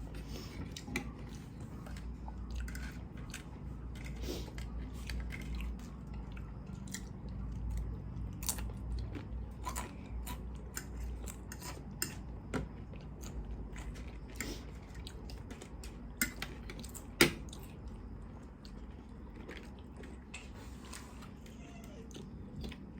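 Close-up chewing and biting of crunchy fried chicken lollipops: wet chewing with irregular crisp crunches and clicks, one sharp click about 17 seconds in.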